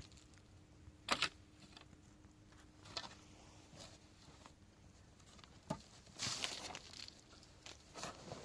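Scattered handling noises: a few separate knocks and scuffs, with a longer rustling scrape about six seconds in.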